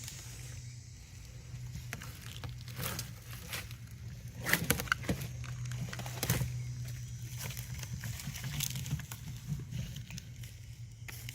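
Irregular rustling, scraping and sharp knocks of hands-on work, loudest in a cluster about halfway through, over a steady low hum.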